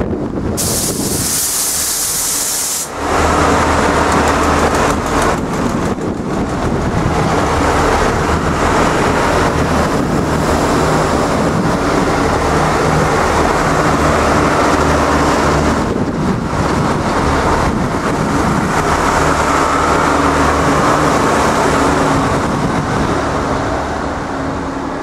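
Irish Rail 29000 class diesel multiple unit passing through without stopping: its underfloor diesel engines drone and its wheels run on the rails, loud as the carriages go by and easing off near the end. A sharp high hiss lasts about two seconds, starting about half a second in.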